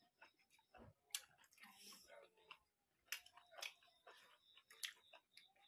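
Faint mouth sounds of people chewing pork curry and rice: irregular soft smacks and clicks, a few every second.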